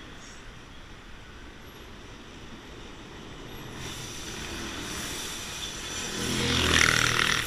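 Yellow-and-white electric railcar of the Rome–Giardinetti narrow-gauge line approaching and passing close by, its running noise on the rails growing steadily louder from about three seconds in and loudest near the end, a low rumble with a higher hissing screech on top.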